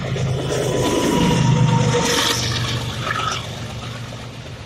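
WDG-4G diesel locomotive and double-stack container freight train passing close by: a steady low engine drone under a rushing noise of wheels and air, loudest about one and a half seconds in, then easing off as the wagons roll past.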